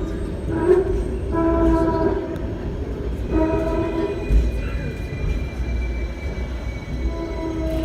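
Hong Kong double-decker tram running, heard from on board: a steady rumble with scattered clicks and rattles, and a level pitched tone that comes and goes in stretches of about a second.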